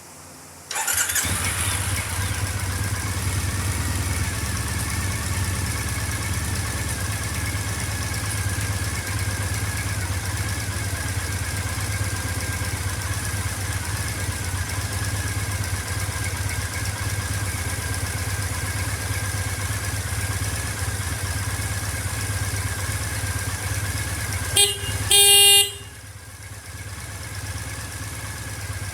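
Triumph Bonneville's parallel-twin engine starting about a second in and then running steadily. Near the end a horn beeps twice, a short beep then a longer honk, and afterwards the engine runs on more quietly.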